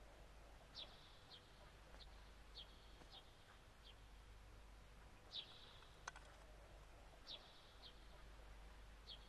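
Faint, short, high bird chirps, repeated in small groups of two or three, over near-silent room tone. A single click about six seconds in.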